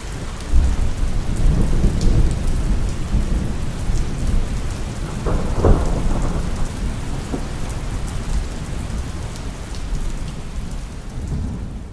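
Heavy rain falling steadily, with rolling thunder that swells about half a second in, peaks in a sharper clap near the middle and slowly dies away.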